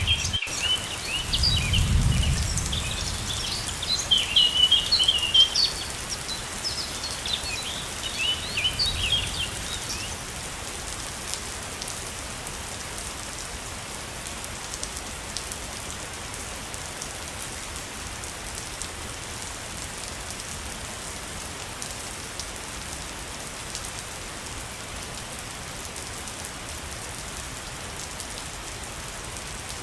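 Steady rushing of falling water, with small birds chirping over it for roughly the first ten seconds. After that the water goes on alone. There is a brief low rumble about two seconds in.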